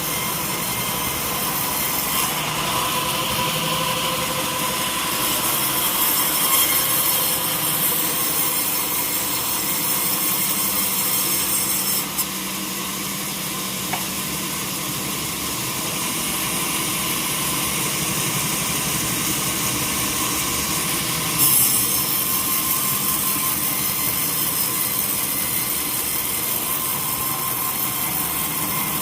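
Sawmill saw cutting through a teak log: a continuous hissing cut over a steady machine hum, easing briefly about twelve seconds in and growing sharply louder again about twenty-one seconds in.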